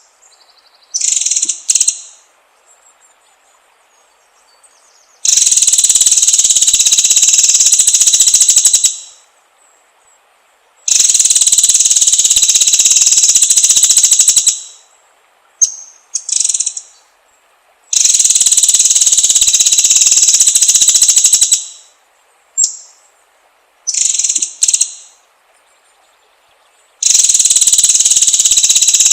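Loud, high rasping buzzes, four long ones of a few seconds each that start abruptly and die away, with short rising chirps between them, from a songbird lure track of shama and forest sounds.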